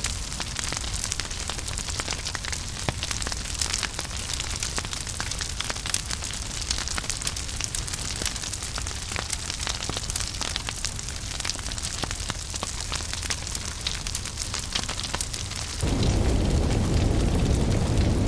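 Wood fire burning in a fireplace, crackling with frequent sharp pops and snaps over a soft hiss. About 16 s in the sound changes abruptly to a louder, deep rumble of flames.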